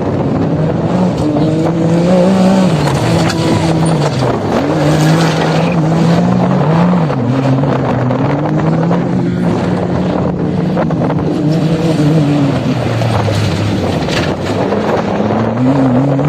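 Off-road vehicle engine running hard, its pitch climbing and dropping again and again as it revs up and eases off, with a deeper dip about two-thirds of the way through and a climb near the end.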